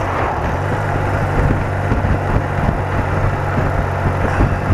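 BMW R80RT's air-cooled flat-twin engine running steadily while the motorcycle is ridden, with a constant rush of wind and road noise.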